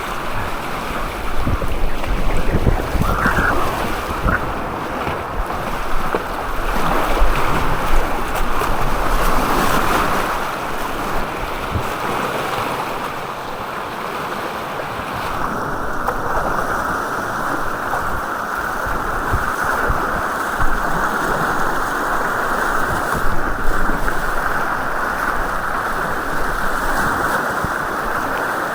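Rushing white water on an artificial white-water course, heard from the kayak, with wind buffeting the action camera's microphone and a few sharp splashes or knocks. About halfway through, the sound suddenly turns duller.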